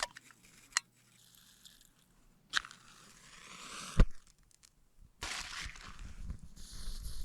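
Gear being handled: a few crunches and clicks, a sharp knock about four seconds in, then a steady crackling rustle.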